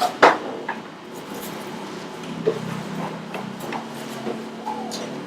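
Clicks and knocks of items and packaging being handled during unboxing, the loudest a sharp knock right at the start. From about two seconds in, a faint low drawn-out tone runs underneath.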